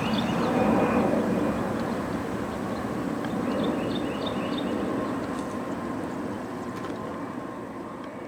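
Military aircraft's engine noise, a steady roar that fades away as the plane flies off.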